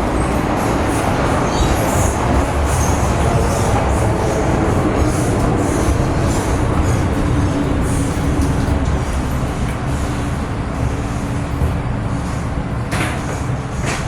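MTR Kwun Tong Line M-Train heard running, a steady rumble of wheels and drive. A faint droning tone holds through the middle, and a sharp clack or two comes near the end.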